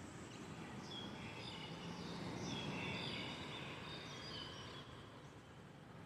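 Birds singing: a run of short high notes, busiest in the middle few seconds, over a steady low city hum.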